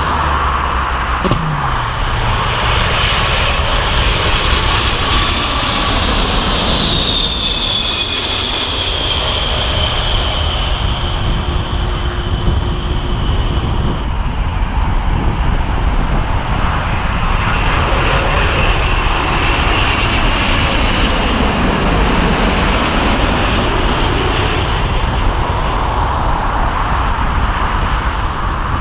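Jet airliner on final approach passing low overhead, its engines making a continuous roar. A high engine whine falls in pitch as the aircraft goes by.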